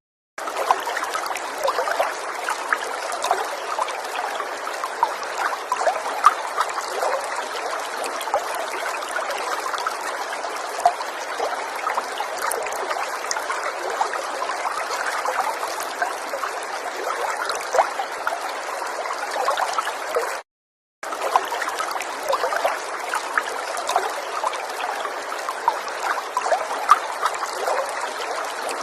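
River water running and trickling over stones: a steady babble full of small splashes and gurgles. The sound cuts out to silence for a moment at the very beginning and again for about half a second some twenty seconds in.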